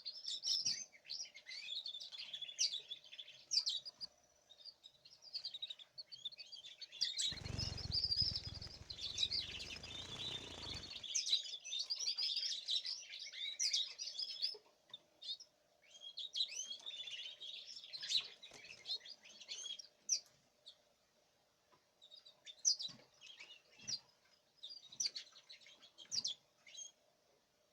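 Caged songbirds chirping and twittering in short, quick bursts, with a pause a few seconds in and sparser calls in the second half. About a quarter of the way in, a few seconds of rushing noise rise under the chirps and stop abruptly; a faint steady hum sits beneath throughout.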